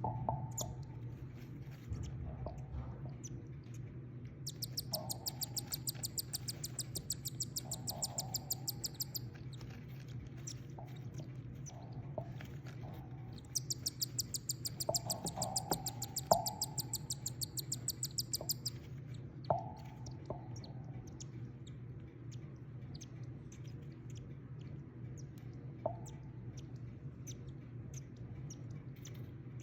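Ten-day-old cockatiel chicks begging: two runs of rapid, evenly repeated high chirps, several a second and about five seconds each, with softer scattered calls between them. A steady low hum runs underneath.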